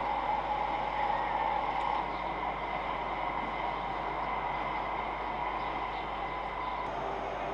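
Steady wash of city traffic noise, with a thin steady high tone running through it.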